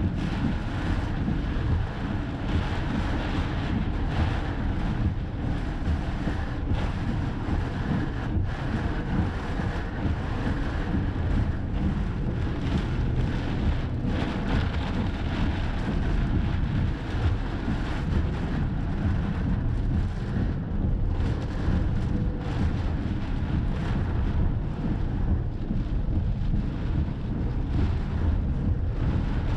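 Strong wind buffeting the microphone: a steady low rumbling noise that flutters without letting up.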